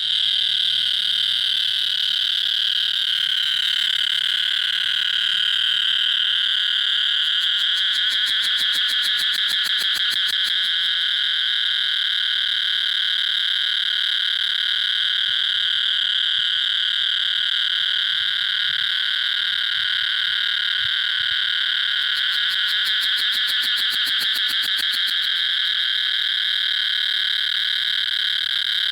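A dense, continuous chorus of calling animals, a loud shrill drone with fast pulsing stretches twice, about eight and twenty-two seconds in.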